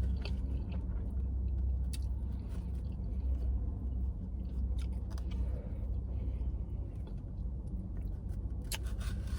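Close-miked chewing of food, with scattered wet mouth clicks, over a steady low hum.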